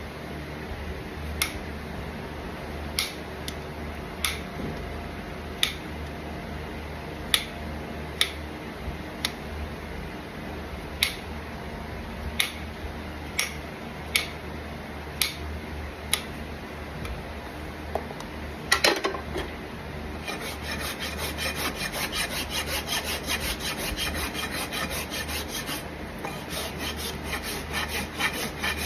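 Farrier's tools working a horse's hoof: sharp clicks about once a second for the first two-thirds, then a steel hoof rasp scraping across the hoof in quick, repeated strokes.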